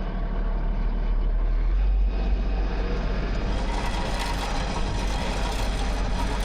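Compact tractor's diesel engine running steadily under load while it drags a landscape rake through snow. A rougher, brighter scraping noise builds over it about two seconds in.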